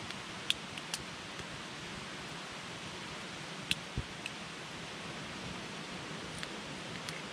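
Wood campfire burning: a steady hiss with scattered sharp crackles and pops, about seven in all, and one duller thump about four seconds in.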